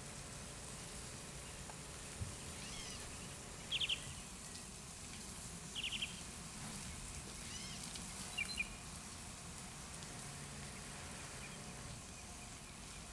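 A bird chirps in three short, quick bursts about four, six and eight and a half seconds in, with fainter calls between, over a steady hiss of spraying water.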